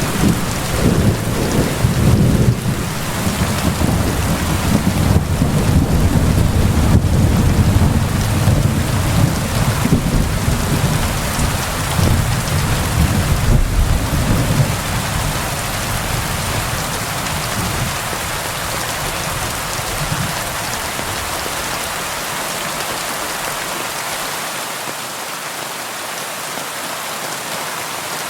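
Steady heavy rain on window glass, with a long, low rolling thunder rumble through the first half that fades away a little past two-thirds of the way in, leaving only the rain.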